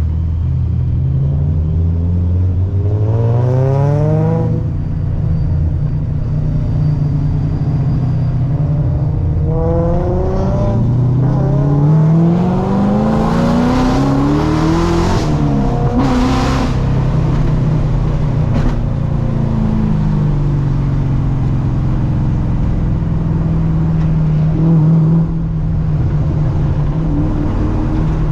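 Supercharged Corvette C6 LS3 V8 under way, its revs climbing on two pulls: a short one a few seconds in and a longer, louder one from about ten seconds, topped by a loud hiss, after which the revs fall and it settles back to steady cruising.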